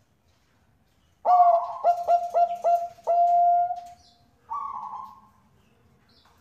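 Zebra dove (perkutut, Bangkok type) singing: a loud run of about five quick clipped coos that ends in one long held coo, followed by a softer burry coo about a second later.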